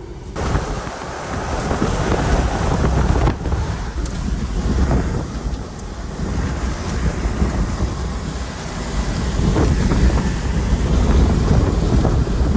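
Strong storm wind buffeting the microphone near a tornado, coming on suddenly just after the start and gusting up and down, with a deep rumble underneath.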